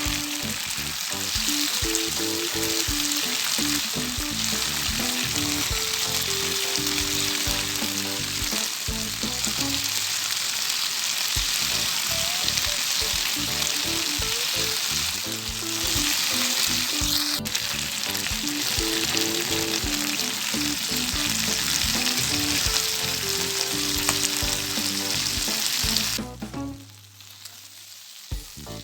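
Chicken satay skewers sizzling on a hot grill pan, a steady dense crackling hiss that stops about two seconds before the end.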